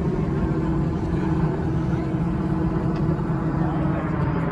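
Steady motor vehicle noise: a low rumble with a constant hum and no changes.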